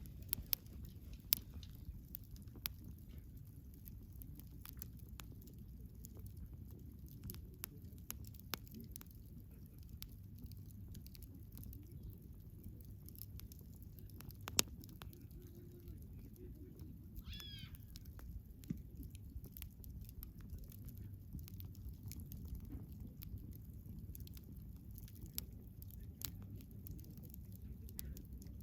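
Wood campfire crackling, with a steady low rumble under many small snaps and an occasional louder pop, the sharpest about halfway through. A brief run of high chirps sounds a little past the middle.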